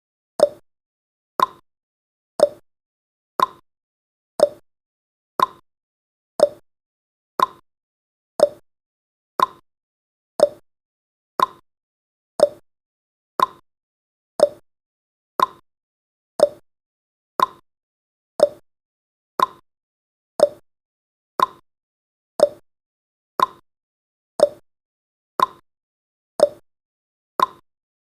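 Countdown timer's tick sound effect: one short pop-like tick each second, evenly spaced and unchanging.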